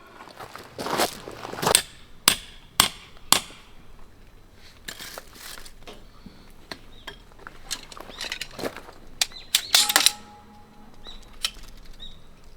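A string of sharp knocks and clacks, like hard objects being handled and set down, several loud ones about two to three and a half seconds in and a quick cluster near ten seconds.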